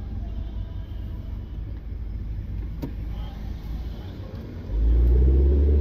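Car engine running with a low rumble while driving. About three-quarters of the way through, it suddenly gets much louder as the car accelerates hard, with a deep engine note.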